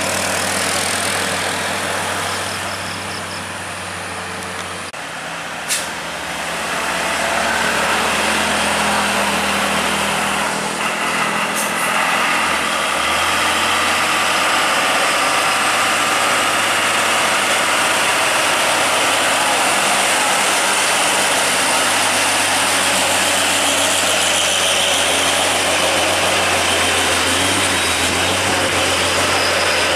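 Heavy truck engines running steadily with road noise, growing louder about seven seconds in as a truck comes close. There is one short sharp sound about six seconds in.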